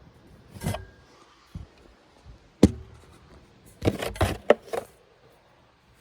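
Handling noise: a few scattered clicks and knocks, with a sharp click about two and a half seconds in and a quick cluster of knocks around four seconds.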